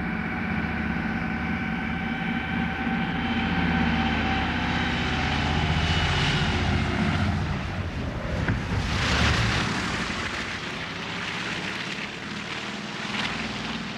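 Twin radial-piston-engined de Havilland Caribou in flight as it returns to land: a steady drone of engines and propellers, its tone shifting partway through.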